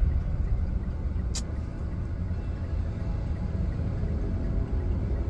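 Steady low rumble of road noise, with one sharp click about a second and a half in.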